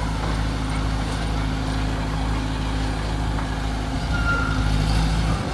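Heavy diesel engine of a crane or truck running steadily, with a short high beep about four seconds in.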